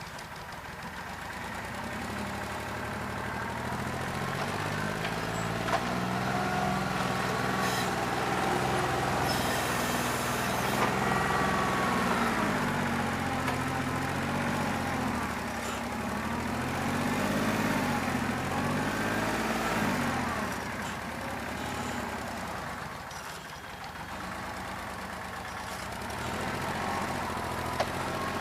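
New Holland 1320 tractor's three-cylinder diesel engine running, its speed rising and falling several times. It runs rough on one weak cylinder, which the owner puts down to a bad injector.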